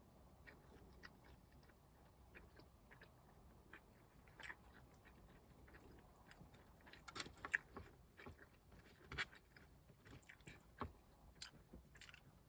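Faint close-up eating sounds: chewing with scattered small wet clicks and crunches, busier about halfway through, over a low background hiss.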